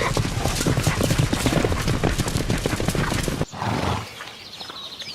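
Wild horses (brumbies) galloping, a dense, rapid drumming of hoofbeats that cuts off about three and a half seconds in. Quieter ambience with faint bird chirps follows.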